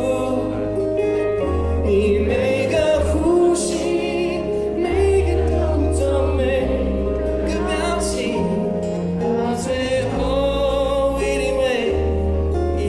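Live pop ballad played through a concert sound system: a sung melody with vibrato over a band with sustained chords and a heavy bass line.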